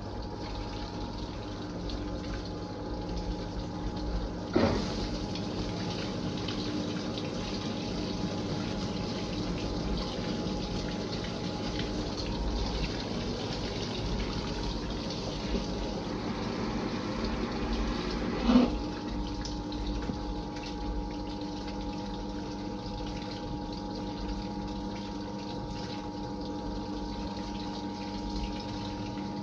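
Fisher & Paykel IW812 top-loading washing machine filling its drum with water: a steady rush of water with a steady hum underneath. Two brief knocks, about four and a half and eighteen and a half seconds in.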